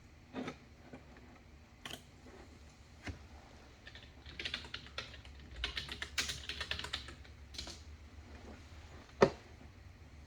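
Typing on a computer keyboard: a few scattered key clicks, then a quick run of keystrokes from about four to seven and a half seconds in, and one sharper, louder click near the end.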